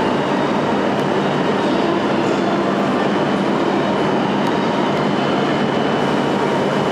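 E6 series Komachi Shinkansen train departing, a steady rush of running noise with a thin high whine held throughout.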